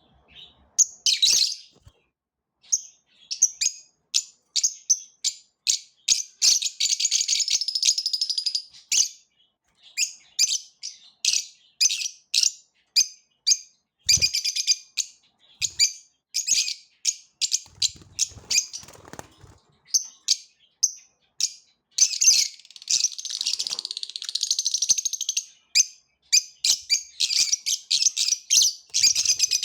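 Small birds chirping: rapid, high-pitched short chirps repeated throughout, breaking twice into longer bouts of continuous chatter. A single dull bump sounds about halfway through.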